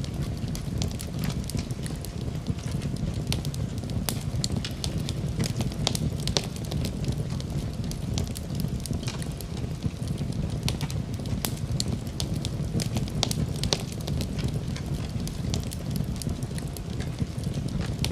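Wood fire burning in a fireplace: a steady low roar of flames with frequent irregular crackles and pops.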